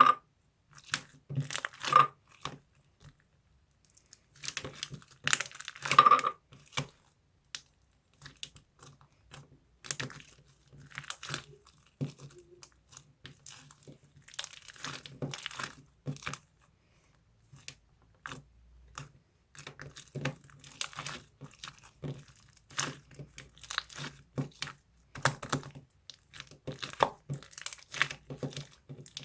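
Irregular bursts of crinkling, crackling handling noise, with short pauses between them.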